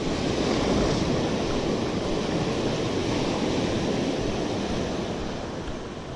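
Ocean surf washing onto a beach, with some wind on the microphone; the rush swells about a second in and slowly eases off.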